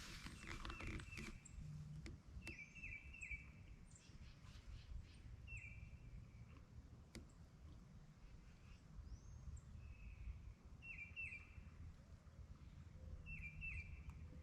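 Faint outdoor ambience with small birds calling: short falling chirps in quick groups of two or three, repeating every few seconds, over a low rumble. There are a couple of faint clicks.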